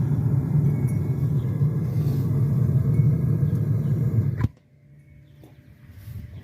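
Gas burner of a metal-melting furnace running at full fire with a steady low rush, its air mixture set by the air slide. It cuts off abruptly about four and a half seconds in, with a click, and much quieter background sound follows.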